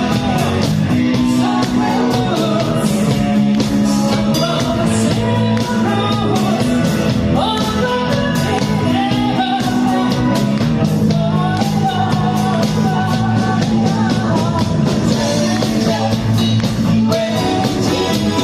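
Rock music with a singer: a band with guitar, bass and drums playing to a steady beat.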